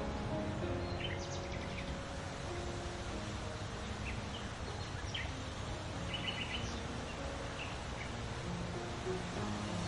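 Songbirds chirping in short repeated notes over a steady low outdoor background hiss.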